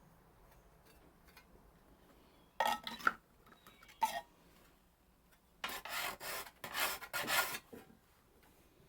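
Whetstone stroked along the edge of an Austrian scythe blade, honing it: a short scrape, a brief one, then a quick run of about five strokes.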